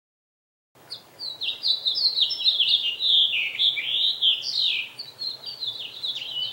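Small birds chirping in a rapid, unbroken run of high chirps, starting suddenly about a second in.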